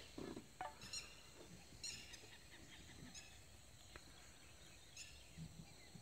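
Near silence: faint outdoor ambience with a few brief, high bird chirps now and then.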